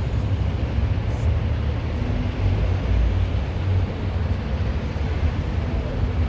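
Steady low rumbling background noise, heaviest in the bass and without distinct events.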